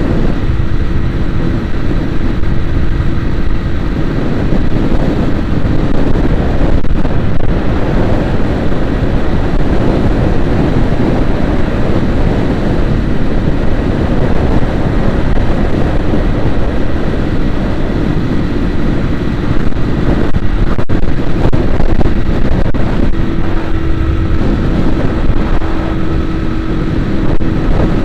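Moving vehicle: a loud, steady rumble of engine and road noise, with a faint steady hum that fades in the middle and returns near the end.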